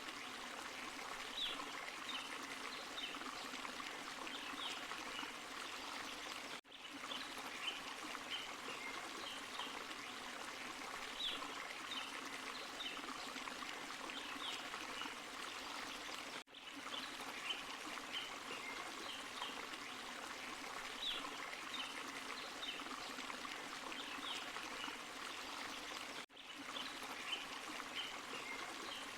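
Forest stream and small waterfall: steady rushing and splashing water. A brief dropout comes about every ten seconds where the recording loops back.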